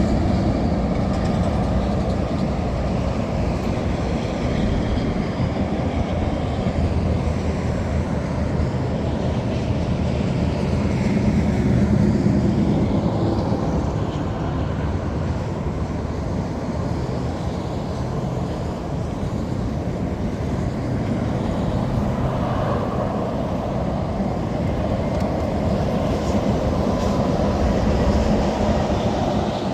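1962 Chevrolet Corvette's 327 V8 running with a steady, loud rumble that swells a little about twelve seconds in and again near the end.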